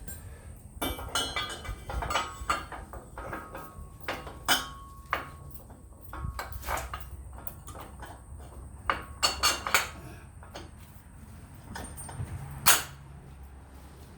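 Metal parts of a backhoe attachment clanking and knocking as they are handled, in a string of sharp irregular knocks with the loudest near the end. A low steady hum runs underneath.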